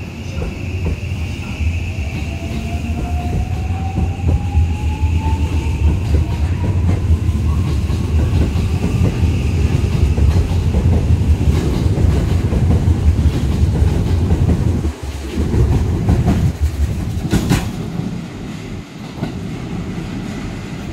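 Electric commuter train pulling out of the station and accelerating past: the traction motors whine, rising steadily in pitch, over a heavy rumble and the clatter of wheels over rail joints. The rumble fades as the train clears the platform, and there is one sharp clack near the end.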